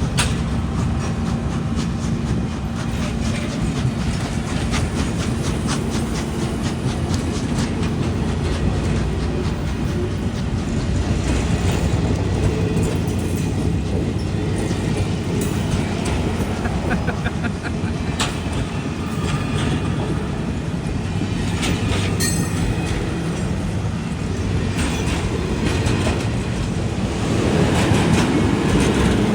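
Freight train rolling past with a steady rumble and its wheels clicking over the rail joints.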